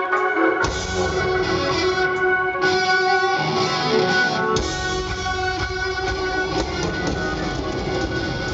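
Live rock band playing an instrumental passage with guitar to the fore; the bass and drums drop out briefly twice, once near the start and once in the middle.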